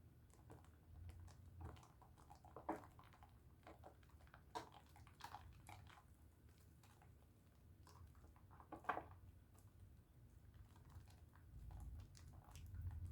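Faint, soft wet squishing and crackling with scattered clicks as a bar of Dove soap is worked into lather between wet hands, with a few louder smacks along the way.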